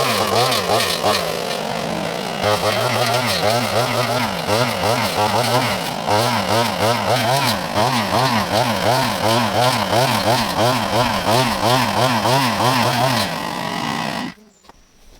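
Worx JawSaw electric chainsaw running while cutting small trees, its pitch dipping and recovering over and over as the chain bites under load. It stops abruptly about fourteen seconds in.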